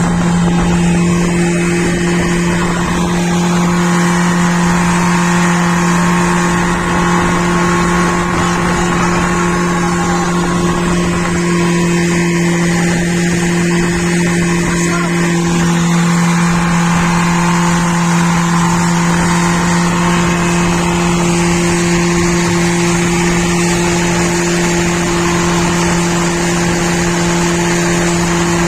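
Motorboat engine running at a steady, unchanging pitch, with a constant hum.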